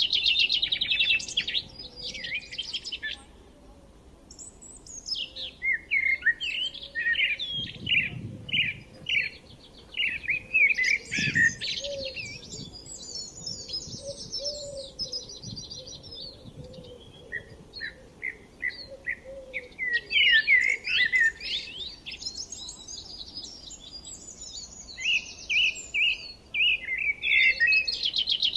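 Several songbirds singing and chirping together, with quick repeated notes and trills, a brief lull a few seconds in, and a faint low rumble underneath.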